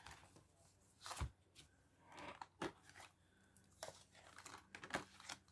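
Soft rustles and light taps of paper envelopes and cards being handled and set in place, a few scattered handling sounds in a quiet room.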